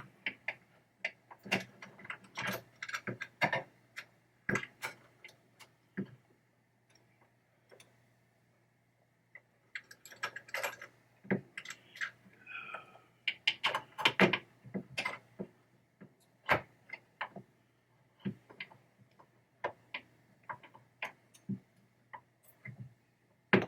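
Irregular clicks and light knocks of small metal pinball-mechanism parts being handled and fitted together on the Williams Funhouse trap door assembly, with a brief scrape about twelve seconds in and a pause around eight seconds. A faint steady hum runs underneath.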